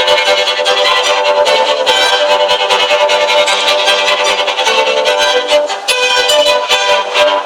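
Violin playing a quick passage of many short notes.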